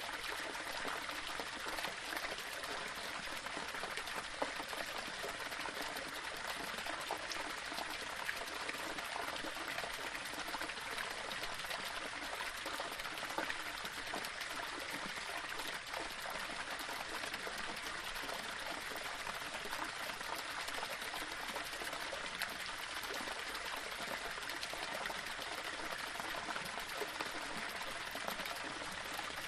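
Small waterfall splashing and trickling over rocks, a steady rush of running water with small splashes throughout.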